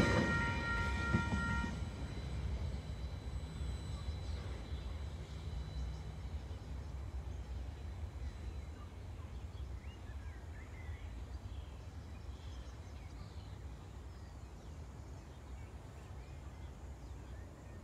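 A Tasrail freight train's low rumble fading away as it leaves the level crossing, dying down gradually. A high ringing stops about two seconds in, and faint bird calls come through as the rumble dies down.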